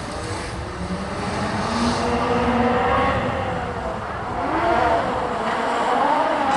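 Stunt show vehicle engines revving, their pitch wavering up and down.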